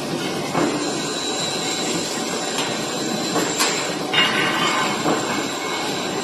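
Plate rolling machine running steadily as it rolls a steel plate, with a thin whine and a few sharp metallic knocks in the second half.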